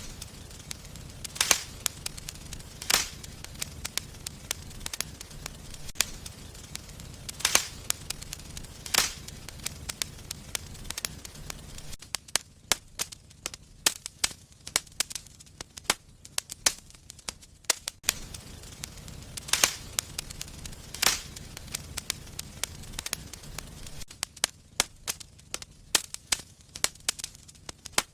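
Wood fire crackling and popping in a fireplace: scattered small crackles with sharp, louder snaps every second or two. A low rumble comes and goes beneath them.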